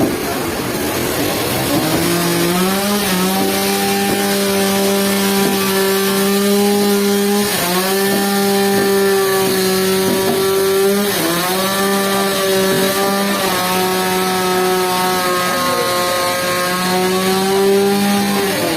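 Sawmill blade cutting lengthwise through a rain tree log: a steady pitched hum over a rasping noise. It comes up to speed about two seconds in, sags briefly in pitch twice as the load changes, and falls away near the end as the cut finishes.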